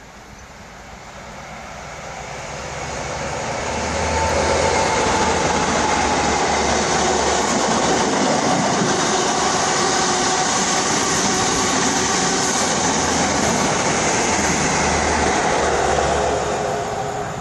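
Train running past: a steady, loud rumble that builds over the first few seconds, holds, then fades away near the end.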